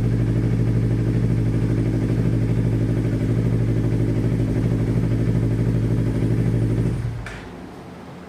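Yamaha R25's parallel-twin engine idling steadily on fresh 15W-50 oil, then switched off about seven seconds in.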